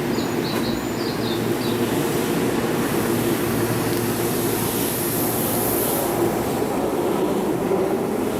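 Keihan 3000 series electric train running, heard from inside the car: a steady rumble of motors and wheels on the track. A few short high chirps come about half a second to a second and a half in.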